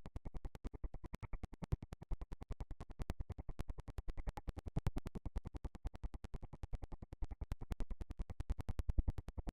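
Rapid, even train of short choppy pulses, about eight a second, with near-silence between them: stuttering, chopped-up audio rather than any single real sound.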